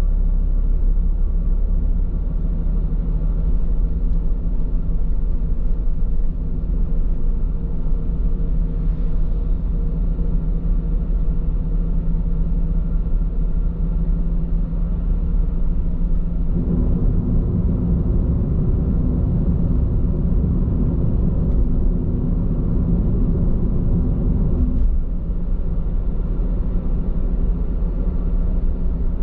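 Road and tyre noise from Bridgestone Regno tyres, heard inside a moving car's cabin as a steady low rumble. About halfway through it grows louder and coarser for some eight seconds, then settles back.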